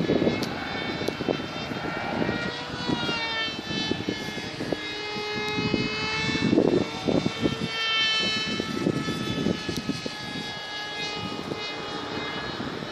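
Small propeller aircraft's motor whining in the air, its pitch sliding down and back up as it passes, over gusty wind buffeting the microphone.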